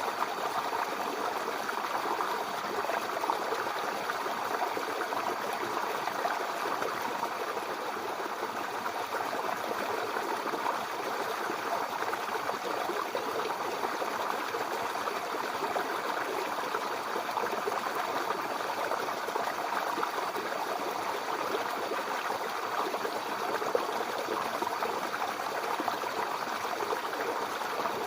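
Small brook babbling over stones, a steady rush of flowing water with fine splashing and trickling detail.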